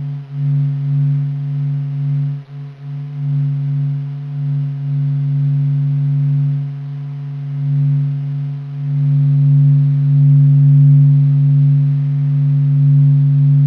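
A NASA space sound recording, electromagnetic wave data turned into audio: a steady, low droning hum of several held tones that swells and ebbs slowly and grows louder in the second half.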